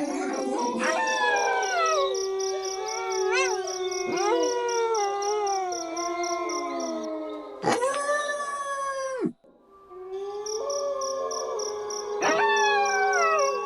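Wolves howling in chorus, several long howls overlapping and sliding up and down in pitch. About eight seconds in, one loud howl rises and falls, then cuts off in a brief gap before the chorus starts again.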